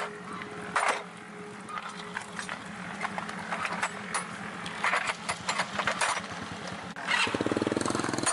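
Workshop machinery sounds: a steady low mechanical hum with scattered sharp knocks and clanks, then a louder, rapid, even chattering of a machine that starts about seven seconds in.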